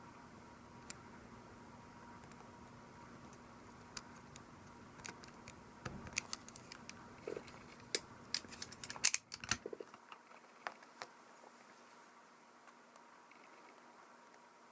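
Scattered small clicks and taps from handling the parts and small tools of a Canon PowerShot S110 compact camera being worked on, thickest in the middle with a sharp cluster about two-thirds through.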